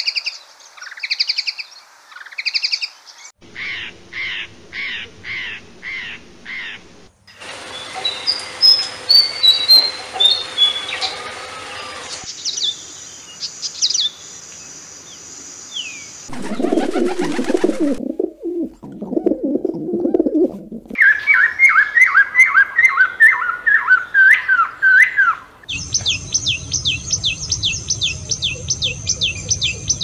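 Different wild birds calling and singing one after another in short clips, the sound changing abruptly at each cut. There are rapid repeated chirps, a busy warbling stretch, low calls for a few seconds near the middle, and near the end a common tailorbird singing a fast, evenly repeated high note.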